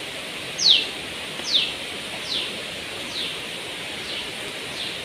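A bird calling a repeated series of short, high notes that each sweep downward, about one a second; the first two are loud and the rest grow fainter. A steady outdoor hiss runs beneath.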